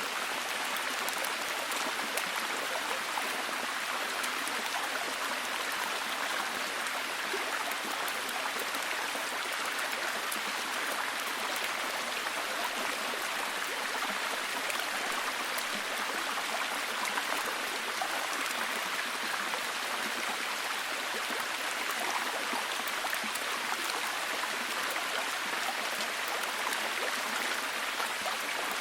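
Steady, heavy rain: a dense, even hiss of drops with fine pattering throughout.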